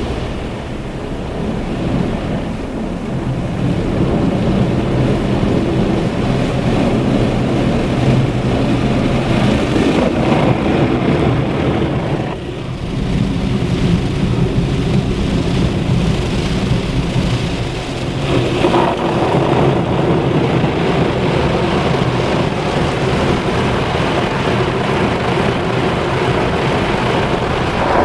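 Automatic car wash machinery working over the car, heard from inside the car: a dense, steady wash of water spray and rotating equipment over a low motor hum, with a brief lull about twelve seconds in.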